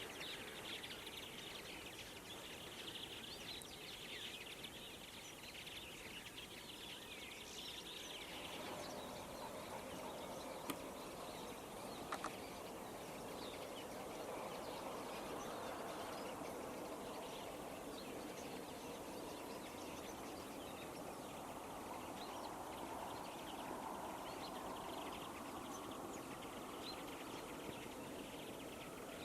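A flock of common linnets and European greenfinches twittering and singing together in many short chirps, over a steady rushing background noise. About eight seconds in, the dense high twittering thins and a lower rush comes to the fore.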